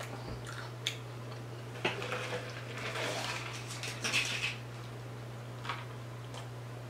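Close-up eating sounds of someone chewing fried breaded shrimp: soft crunches and mouth noises with a few light clicks, over a steady low hum.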